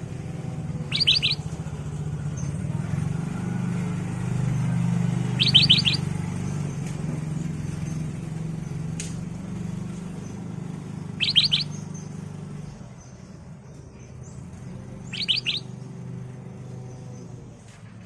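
Black-crested bulbul calling four times, each call a quick run of three or four high notes, spaced a few seconds apart. A steady low hum runs underneath and fades about two thirds of the way in.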